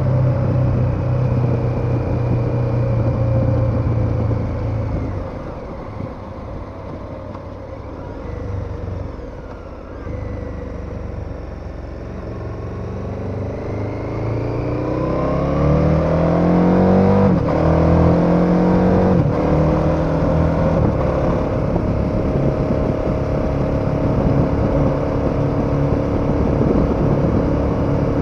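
KTM 1290 Super Adventure's V-twin engine running at a steady cruise, then easing off. It picks up again, its pitch rising as it accelerates, with a couple of gear changes a little past halfway, and settles back into a steady cruise.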